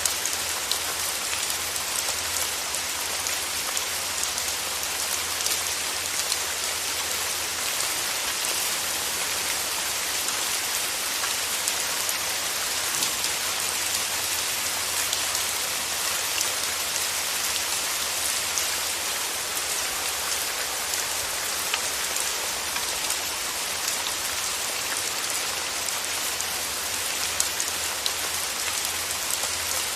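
Steady rain falling, with a dense patter of individual drops hitting a surface over an even hiss.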